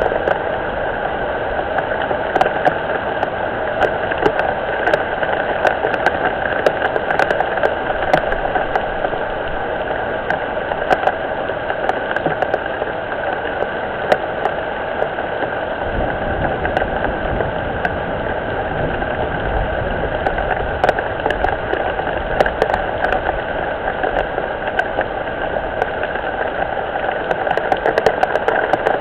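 Steady rain falling, with many separate drop clicks close to the microphone. A low rumble joins about halfway through.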